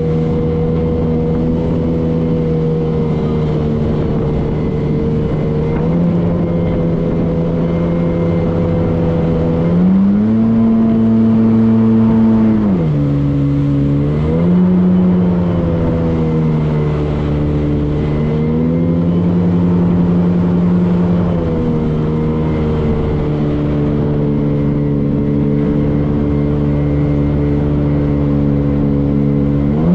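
Motorboat engine running steadily under way, its pitch stepping up and down several times as the throttle changes: it rises about ten seconds in, drops again a few seconds later, and shifts a few more times near the end.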